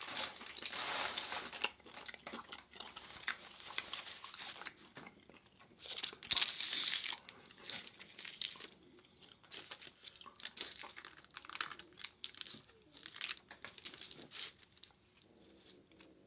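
Close-miked chewing of crunchy food: a noisy crinkling stretch in the first second or two, then irregular crisp crunches and chewing, loudest about six seconds in, dying down near the end.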